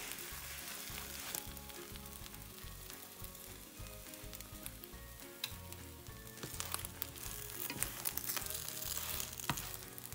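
Folded egg omelette frying in a nonstick pan: a steady soft sizzle, with a few small clicks and crackles in the second half.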